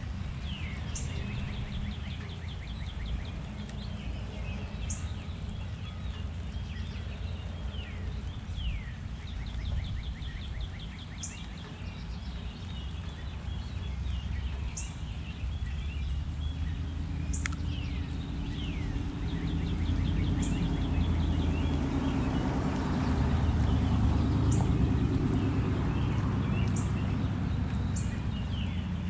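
Backyard songbirds calling around a feeder: rapid trills, short high chips and quick downward-sliding notes, repeated throughout, over a low steady rumble that grows louder past the middle.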